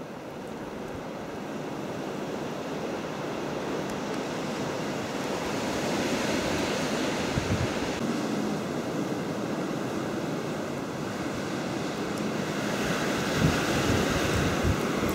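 Blizzard wind blowing across the microphone: a steady rushing noise that swells gradually, with low buffeting thumps from gusts hitting the mic about halfway and again near the end.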